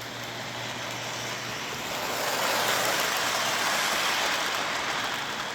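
K-Line O27 toy train running on its track: a steady rumble of its wheels and motor that swells louder about two seconds in and eases off near the end, as it passes close. The locomotive has no sound unit, so this is mechanical running noise only.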